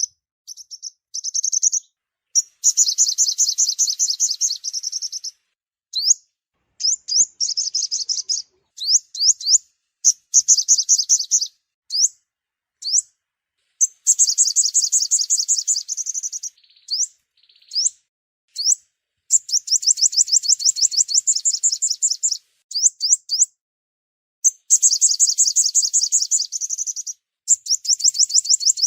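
Sunbird song: high, rapid trilled phrases a few seconds long alternating with runs of single quick chirps, repeating over and over. It is a call recording meant to lure sunbirds for trapping.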